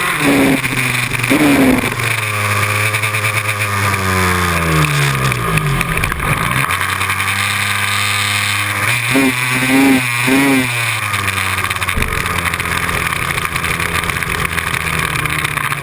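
A small motorbike's engine heard up close from its handlebars, the revs falling and rising again and again through the corners, with a few quick blips of the throttle about two-thirds of the way in.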